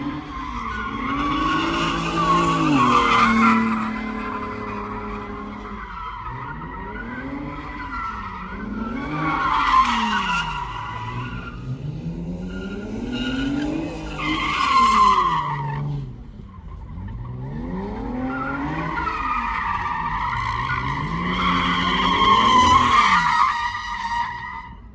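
Vehicle engine revved up and down over and over while its tires squeal, as in a burnout. The squeal and revs swell to their loudest several times, with a short drop about two-thirds of the way through.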